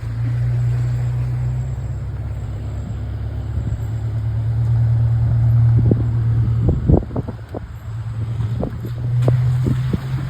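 Vehicle engine running with a steady low hum while driving, with a cluster of knocks and rattles about six to ten seconds in.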